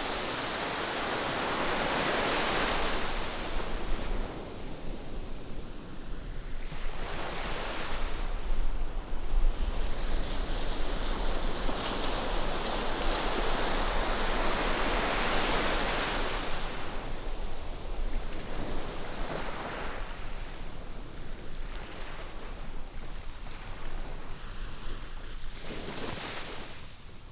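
Ocean waves breaking on a sandy beach, the surf rising and falling in several slow surges. A low rumble of wind on the microphone runs underneath.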